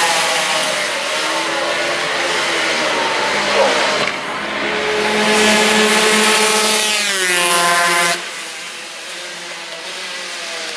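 Racing motorcycles running at full throttle on a road circuit, engine pitch climbing and falling through gear changes. The loudest passage ends abruptly about eight seconds in, leaving a quieter engine further off.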